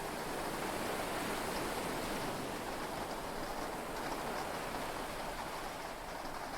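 Heavy rain on a yacht, heard from inside the cabin: a steady, even rush of rain with faint scattered drop ticks.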